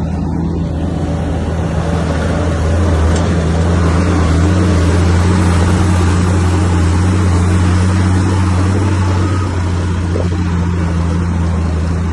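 Heavy diesel earthmoving machine running steadily, a deep engine drone that grows louder about two seconds in.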